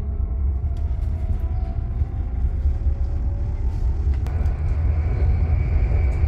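Cabin rumble of an electric regional train pulling away from a station, with a faint motor whine that rises slowly as it picks up speed. A single click about four seconds in.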